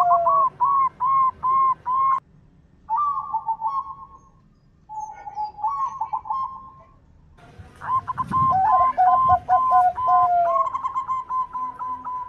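Zebra doves (perkutut) cooing: phrases of short, looping notes at one pitch, with a lower run of notes alongside that falls at the end. The sound drops out abruptly twice, a couple of seconds in and again past the middle.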